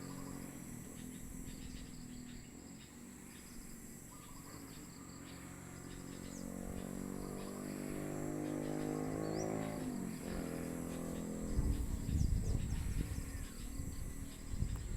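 Insects chirring steadily in a high, even note. An engine passes partway through: its hum swells and drops in pitch about ten seconds in. A strong, irregular low rumble follows near the end.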